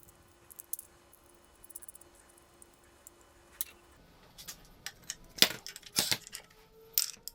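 Small metal parts clinking and clicking as they are handled. There are light taps in the first half and three louder metallic clacks in the second half.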